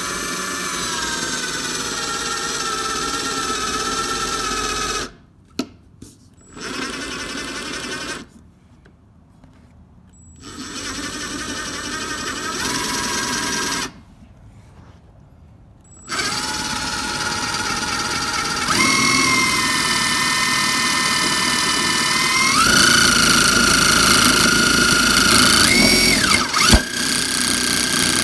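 Electric drill boring holes through metal plates, lubricated with WD-40. The motor whine runs in several stretches with short pauses between, and its pitch steps up twice in the second half.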